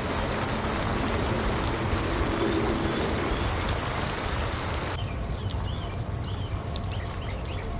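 Steady heavy rain falling; about five seconds in it cuts abruptly to lighter rain with birds chirping.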